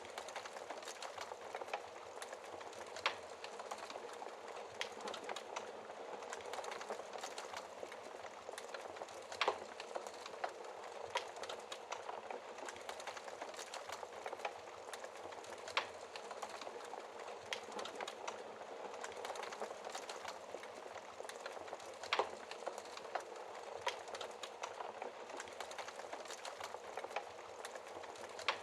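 Wood fire burning in a fireplace: a steady crackling hiss with a sharp pop every few seconds.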